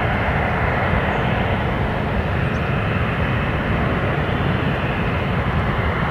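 Embraer ERJ-175 airliner's twin turbofan engines at takeoff power, a steady jet rumble heard from the ground as it climbs away, easing off slightly.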